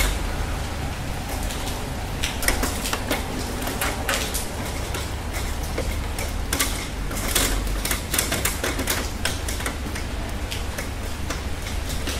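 Rain falling: a steady hiss over a low rumble, with many sharp, irregular taps of drops striking a hard surface, some coming in quick clusters.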